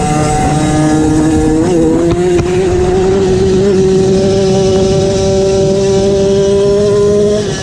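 MXF 50 Pro Racing mini motocross bike engine running hard at high revs. The note dips briefly about two seconds in, then climbs and holds steady before easing off at the very end.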